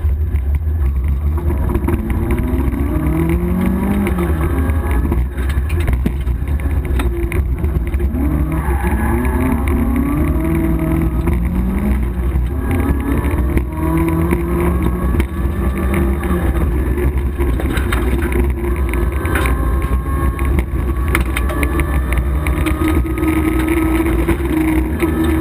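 Opel Manta GTE rally car's four-cylinder engine at full throttle, heard from inside the cabin: revs climb and drop back again and again as the driver shifts through the gears, over a heavy, steady low drone. A few sharp ticks come near the end.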